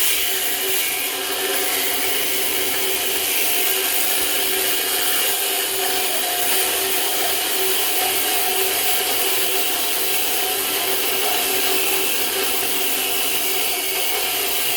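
Angle grinder with a cutting disc cutting steadily through the inch-thick steel wall of a safe, running continuously with a high grinding hiss.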